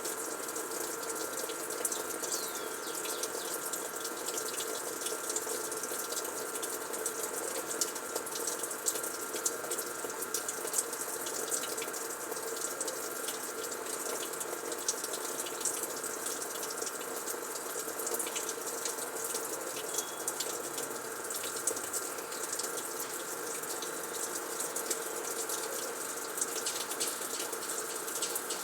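Frigidaire washing machine running with a steady rush of water, with a steady hum and scattered light ticks.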